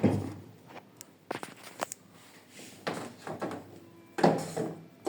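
Handling noises of parts being moved and fitted: scattered light clicks and knocks, with a louder clatter about four seconds in.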